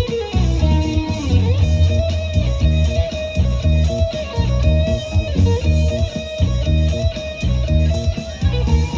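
Band playing an instrumental passage: electric guitar carrying a held melody line with bends over bass and a steady drum beat.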